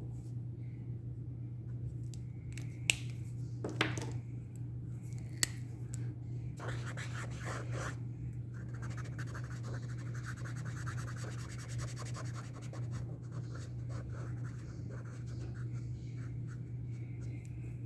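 Acrylic paint pen marker nib scratching as it draws, in repeated short strokes, with a few sharp clicks before the longer stretch of strokes. A steady low hum runs underneath.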